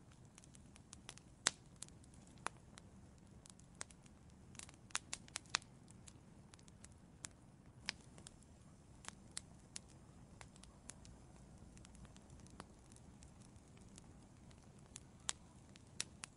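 Wood fire burning in an outdoor fireplace: irregular sharp pops and snaps of crackling wood over a faint low hiss, with a quick cluster of pops about five seconds in.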